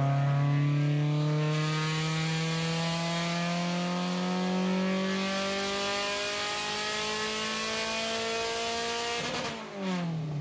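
Honda Civic's high-compression single-cam D-series four-cylinder on a chassis dyno at full throttle: the revs climb steadily in one long pull for about nine seconds, then the throttle is lifted and the revs fall away near the end.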